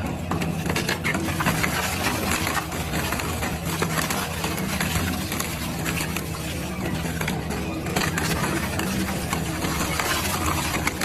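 Double-shaft shredder running, its motor giving a steady low hum under a constant stream of crackling and clattering as material is broken up between the shafts.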